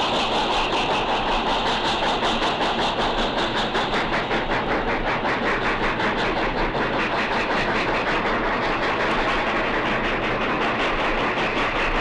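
Union Pacific 4-8-4 steam locomotive working at speed, its exhaust beating in a fast, even rhythm over a steady roar.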